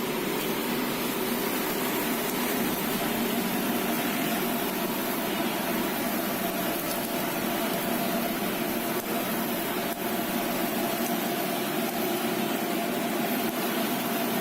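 A steady machine hum with a few held tones, over a continuous even hiss.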